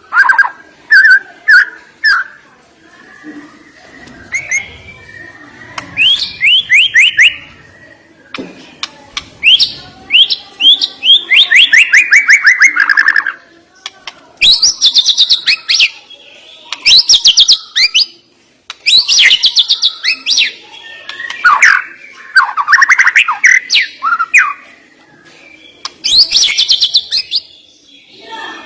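White-rumped shama (murai batu) singing loud phrases of rapid repeated notes and sweeping trills, each burst a second or two long, with short pauses between them.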